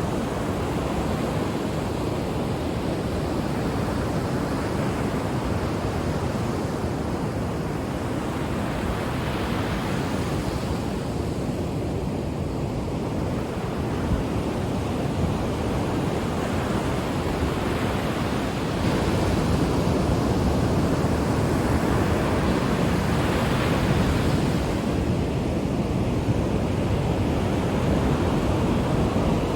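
Ocean waves washing onto the shore in a steady surf wash, swelling and easing slowly, with a little wind on the microphone.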